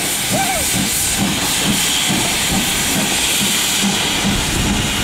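Steam locomotive King Edward pulling away, with a loud steady hiss of escaping steam over a regular rhythm of exhaust beats, about three a second.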